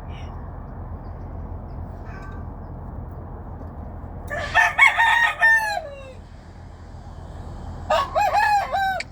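Hatch gamecock crowing twice, each crow about a second and a half long, the second starting about three seconds after the first ends, over a steady low background rumble.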